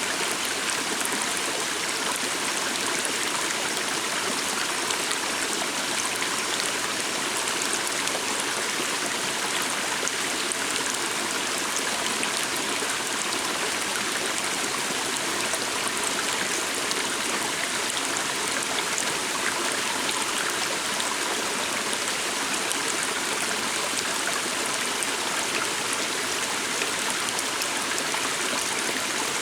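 Calm forest stream flowing steadily, a constant rush of water with faint small splashes and trickles.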